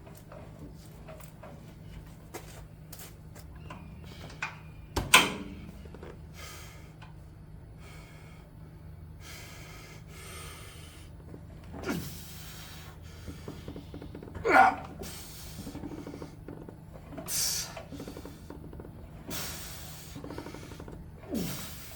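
A person breathing hard through a set of single-leg seated hamstring curls on a gym machine, with a few sharp clanks from the machine over a steady low hum.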